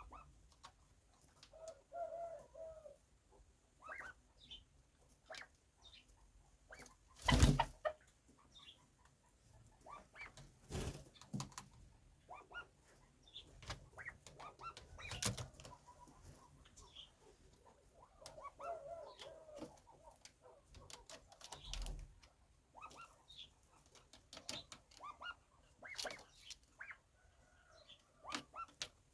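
Chukar partridge moving about, with scattered small taps and clicks, a few louder flaps or knocks (the loudest about seven seconds in), and a short soft call twice.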